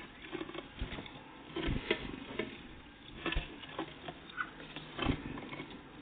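Small birds, great tits and blue tits, pecking and hopping at a feeder: irregular sharp taps and knocks, with a few louder thumps among them.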